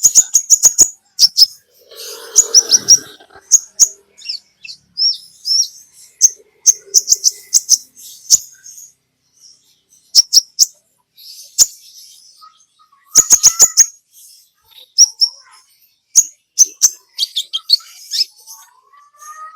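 Olive-backed sunbird (kolibri ninja) singing vigorously: short bursts of high-pitched chirps, twitters and rapid ticking trills, broken by brief pauses.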